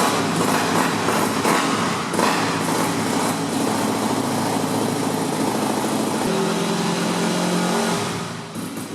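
Dirt bike engine running just after being started, with its freshly cleaned and re-oiled air filter in place; a few short surges in the first three seconds, then a steady idle.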